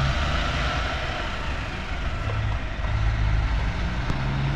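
Heavy trucks' diesel engines pulling away and driving past, a low engine note shifting in pitch over steady road noise.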